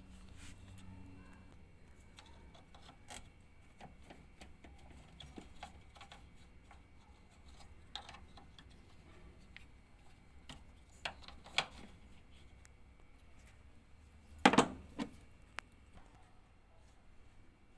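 Scattered light clicks and knocks of parts and tools being handled, with a sharper cluster of knocks about two-thirds of the way in, over a faint low hum.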